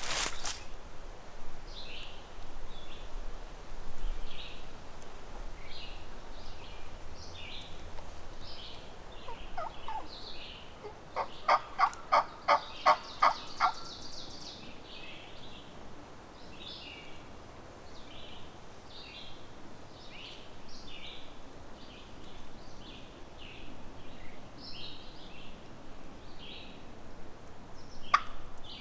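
A loud series of about eight turkey yelps, roughly three a second, near the middle. Small songbirds chirp throughout.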